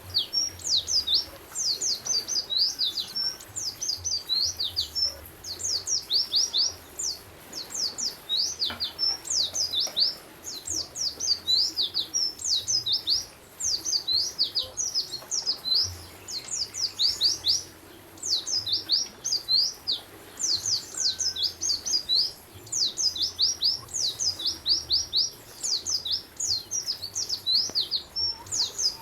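A songbird singing rapid strings of high, sharply sweeping chirps, mostly falling in pitch. They come in phrases about a second long with brief pauses between them, repeating steadily.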